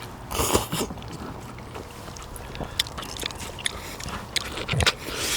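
A person eating pork-bone soup (gamjatang): chewing and biting at the meat, with scattered short clicks and a few brief noisy bursts.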